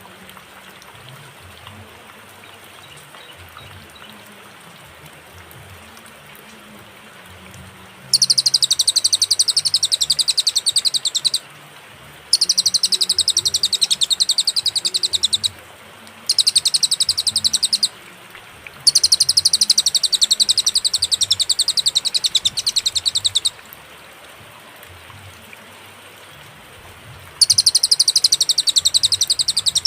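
Cililin song: loud, very rapid, high-pitched trilled strings of notes in bouts of a few seconds separated by short pauses. The bird starts about eight seconds in, after a faint background, and sings five bouts.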